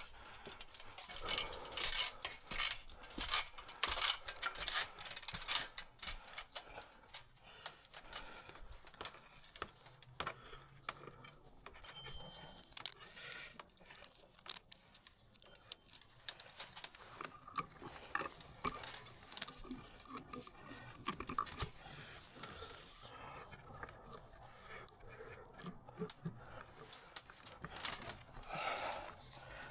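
Handling noise: small metal hardware and tools clicking and rattling, with a run of louder clicks in the first few seconds and scattered clicks and rustling after.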